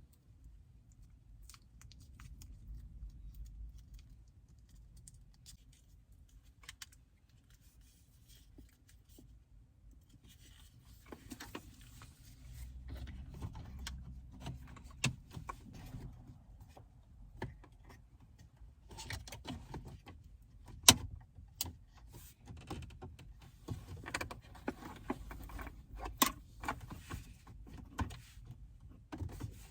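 Hands working on car interior plastic trim and small parts: scattered clicks, taps and rattles. The work is sparse for the first ten seconds, then busier, with one sharp click standing out about two-thirds of the way through.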